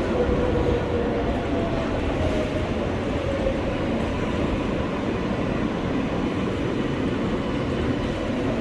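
R143 subway car running on the track, a steady rumble with a faint electric motor whine, as the train rolls into a station.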